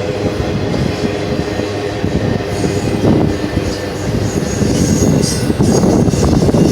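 Cars of an intermodal freight train rolling past on steel rails, a dense steady rumble with wheel-on-rail clatter. About two and a half seconds in, a thin high wheel squeal joins and comes and goes.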